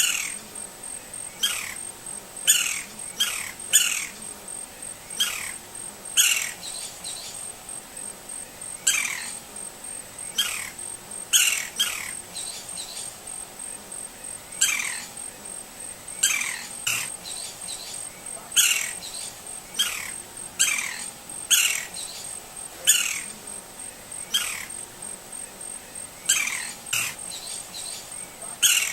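Green-barred woodpecker calling: short, sharply falling calls repeated every second or two, sometimes two or three in quick succession.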